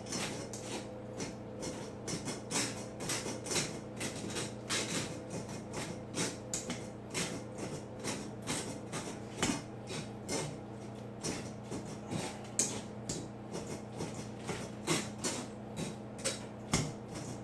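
A kitchen utensil knocking and scraping against cookware in irregular strokes, about two or three a second, as cooked onion, garlic and herbs are squashed in the pan sauce to press out their flavour. A steady low hum runs underneath.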